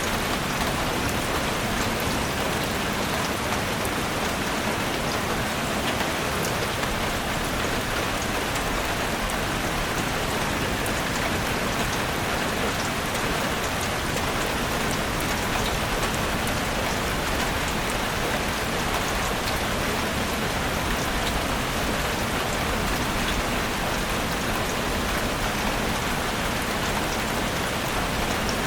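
Steady rain falling in a forest: an even, unchanging hiss with scattered small drop ticks.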